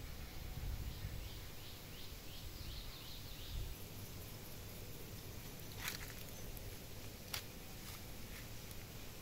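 A bird chirping in a quick run of about eight short falling notes, over a low rumbling background; two sharp clicks follow a few seconds later.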